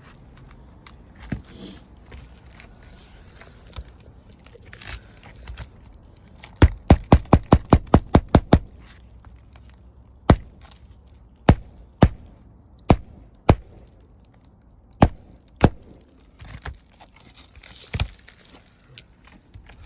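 Hammer driving roofing nails through an asphalt shingle: a quick run of about ten blows at about five a second, then single blows a second or so apart, with light scraping and handling of the shingles between.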